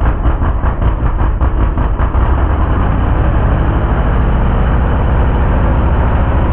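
Big drag-racing engine idling loud and lumpy, with an uneven pulse at first that settles into a steadier rumble.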